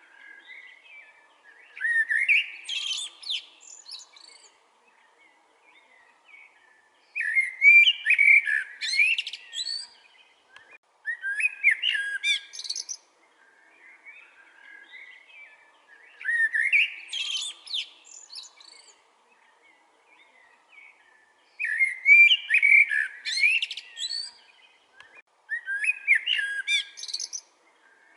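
Eurasian blackbird singing: six separate phrases a few seconds apart, each a warbled phrase of about two seconds that runs up into higher twittering notes, with fainter birdsong between the phrases.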